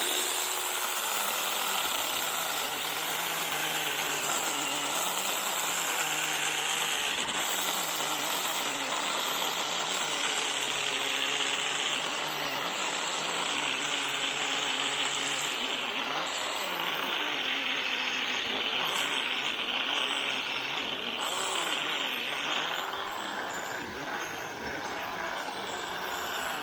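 Small 6-inch battery-powered mini chainsaw cutting through a tallow tree trunk: a steady high motor whine with the rasp of the chain in the wood, easing slightly near the end.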